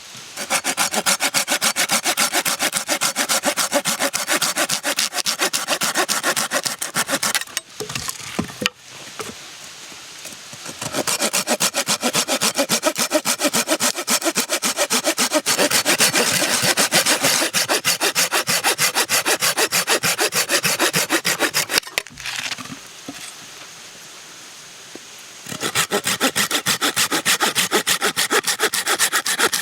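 Hand saw cutting through wood with quick, regular back-and-forth strokes, in three long spells separated by two short pauses.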